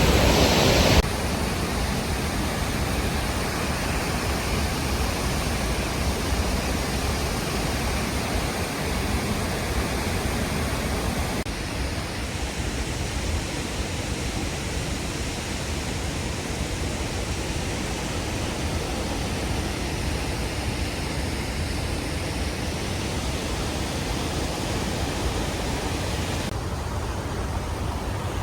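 Steady, dense rush of a large waterfall, Lemolo Falls, heard close up in its mist, an even hiss across all pitches.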